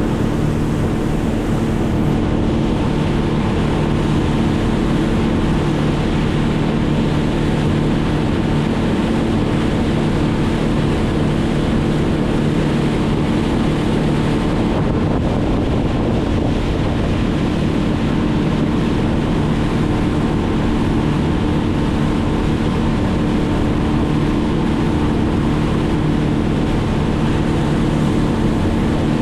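Engine running at a steady speed, with wind noise on the microphone.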